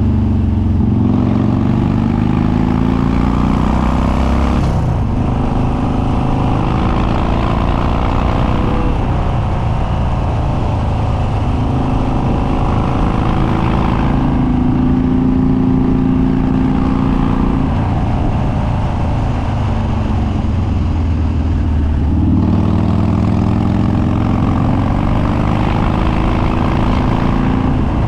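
Harley-Davidson Dyna Street Bob's Twin Cam V-twin, with Andrews 48H cams, running through an open air filter and unbaffled upswept dual exhausts while riding under load. The engine note climbs and then drops back several times, about 5, 14 and 22 seconds in.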